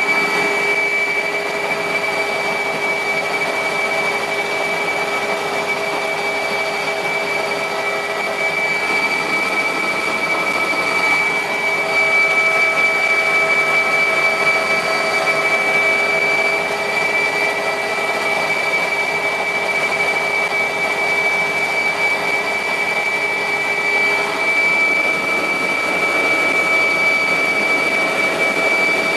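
Mil Mi-2 helicopter's twin turboshaft engines and rotor in flight, heard from the cockpit: a steady high turbine whine over a constant rushing noise, holding an even pitch throughout.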